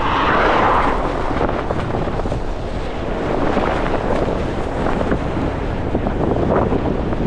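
Strong gusting wind buffeting the microphone: a loud, rumbling rush of wind noise, with its strongest gust in the first second.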